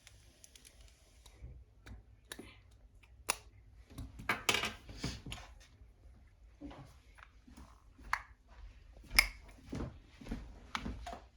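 Small plastic parts of a Hexbug Land Rover construction kit being handled and fitted together: irregular sharp clicks and short rustles, busiest about four to five seconds in, with the sharpest click about nine seconds in.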